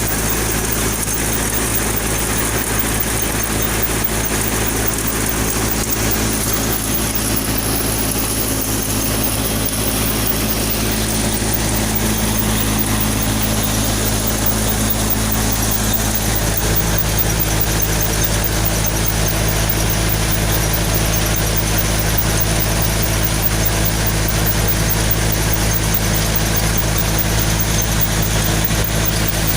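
Sonalika tractor's diesel engine running at a steady speed, with a steady high whine above it.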